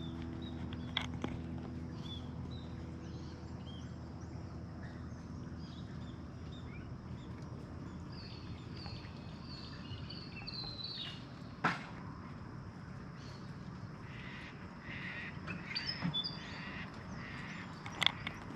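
Wild birds calling, with runs of short high chirps and cawing notes over a steady outdoor ambience. A few sharp clicks are mixed in; the loudest comes about two-thirds of the way through.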